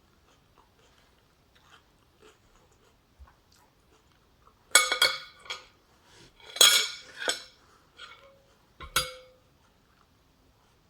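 Metal cutlery clinking against dishes: a few sharp clinks with a ringing tone in three clusters, about halfway through, a couple of seconds later, and near the end.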